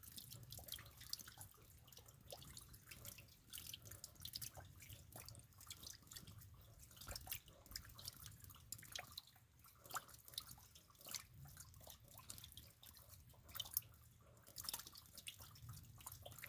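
Rain falling, heard as many small irregular drips and taps.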